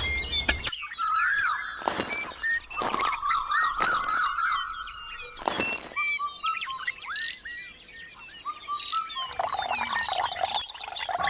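Several birds chirping and calling in quick, overlapping short notes, with a few sharp clicks in the first half.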